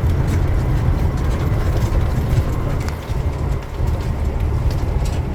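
Diesel water truck driving, heard from inside the cab: a steady low rumble of engine and road with scattered light rattles and knocks.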